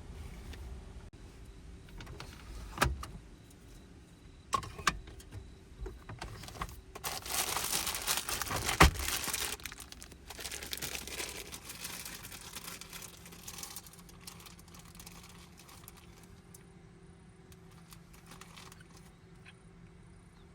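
Scattered knocks and clinks, with a few seconds of rustling and clatter in the middle; the loudest knock comes about nine seconds in.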